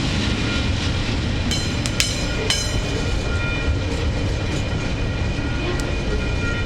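TasRail freight train of container and empty log wagons rolling past: a steady rumble of wheels on the rails, with three sharp metallic clanks that ring on about two seconds in.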